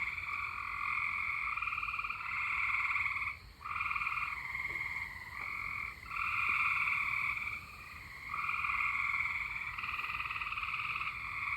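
A chorus of frogs trilling: several overlapping long trills, each a second or two long, starting and stopping at slightly different pitches.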